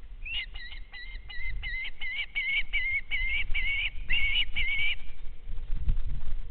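A bird calling a quick run of short, high whistled notes, about four a second, for some four and a half seconds, then stopping. A low rumble runs underneath.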